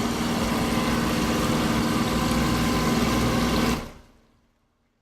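Sailboat's motor running steadily with a low hum, fading out quickly about four seconds in.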